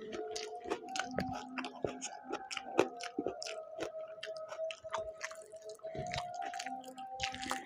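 A person chewing and biting food close to the microphone, with many small wet mouth clicks and crunches.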